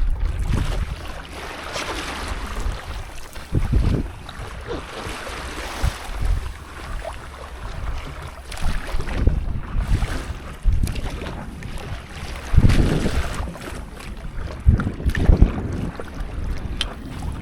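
Sea water splashing and sloshing around a stand-up paddleboard, with wind buffeting the microphone in irregular low gusts.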